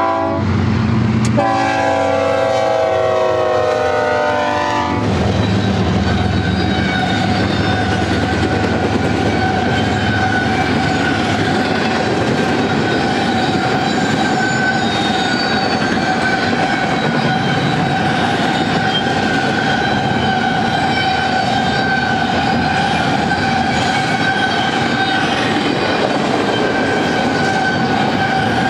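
BNSF GE ES44DC locomotives' air horn sounding as the train passes close by: a short blast, then a longer one lasting until about five seconds in. Then the empty double-stack well cars roll past with a loud, even clatter of wheels on rail and a steady ringing tone over it.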